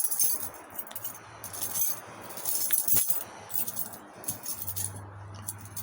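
A bunch of keys jangling and clinking as they are handled, with a couple of sharp clicks.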